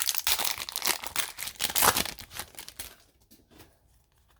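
Foil trading-card pack wrapper crinkling and tearing as a hockey card pack is opened by hand. The dense crackle stops about three seconds in.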